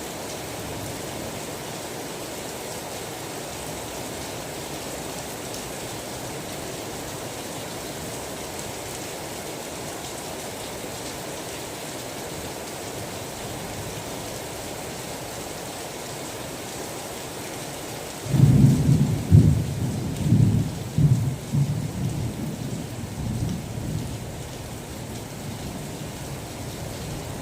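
Steady rain hiss, then about two-thirds of the way through a sudden thunderclap breaks in and rolls on in several deep surges before fading back under the rain.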